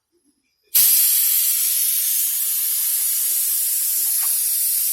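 Compressed-air paint spray gun spraying paint, a loud steady hiss that starts abruptly about a second in.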